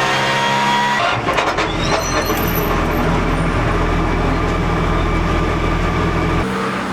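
Porsche GT3 Cup race car's flat-six engine climbing in revs, then about a second in the revving stops with a few sharp clicks and the engine runs on low and uneven, changing again near the end.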